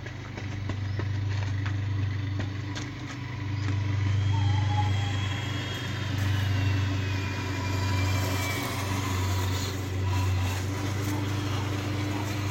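Electric motor and drivetrain of a Vaterra Twin Hammers RC truck running, with a steady low hum that swells and eases with the throttle. A faint whine falls in pitch midway through.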